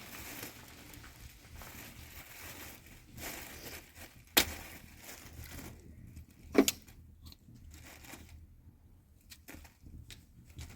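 Rustling, crinkling handling noise with two sharp knocks, about four and six and a half seconds in, the second with a brief ring.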